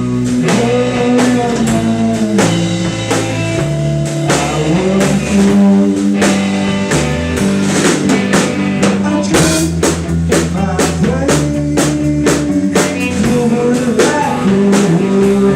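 A rock band playing live: a drum kit keeping a steady beat under electric guitars and sustained low notes.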